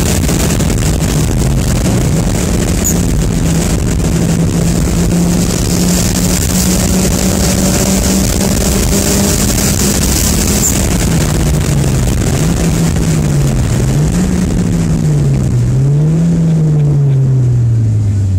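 Toyota Starlet Glanza's turbocharged four-cylinder engine, heard from inside the cabin, held at high revs over loud road and wind noise. About eleven seconds in, the engine note dips and rises several times as the throttle is lifted and reapplied, then falls away steadily near the end as the car slows sharply behind the car ahead.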